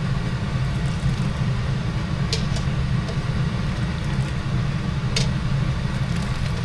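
Steady low hum of a kitchen range hood fan running while dumplings boil on the stove, with two light clicks or taps.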